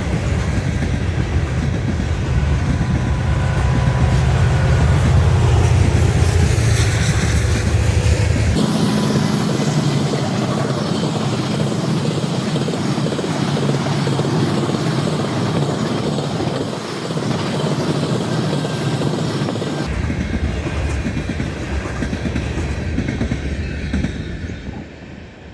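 A train passing close by, its wheels clattering over the rails, with some faint wheel squeal. The sound changes abruptly twice, about a third of the way in and again near the end.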